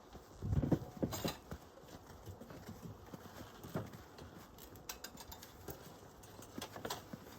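Irregular knocks and thumps, the heaviest about half a second to a second in, then a few lighter knocks: the sound of hive equipment and boxes being handled.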